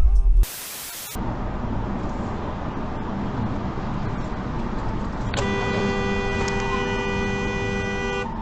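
Steady road noise of a moving car, then about five seconds in a car horn sounds one held blast lasting about three seconds. A short burst of hiss comes just before the road noise begins.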